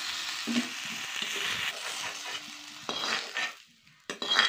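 Potato cubes sizzling in hot mustard oil in a kadhai while a metal ladle scoops and scrapes them out. The sizzle dies away about three and a half seconds in, and a sharp metal clink follows near the end.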